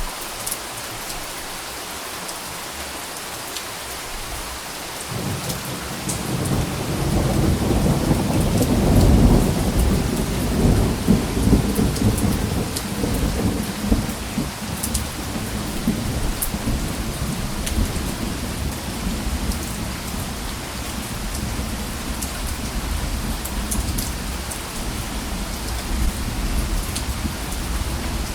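Steady rain with scattered sharp drop ticks. About five seconds in a low roll of thunder rumbles in, loudest a few seconds later, then keeps rumbling under the rain to the end.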